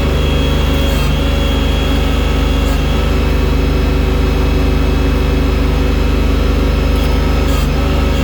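Tractor engine running steadily under load while it works a front loader bucket.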